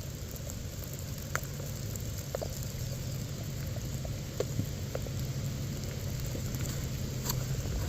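Rain falling, an even patter with scattered sharp taps of single drops close by, over a low steady rumble.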